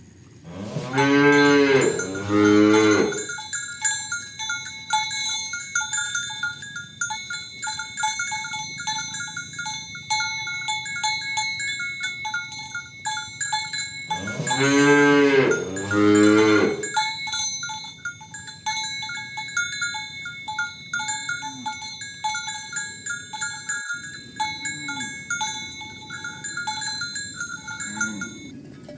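Cattle mooing: two long, loud moos, each in two parts, about a second in and again about halfway through, with a few faint shorter calls later. Cowbells clank unevenly throughout as the herd walks.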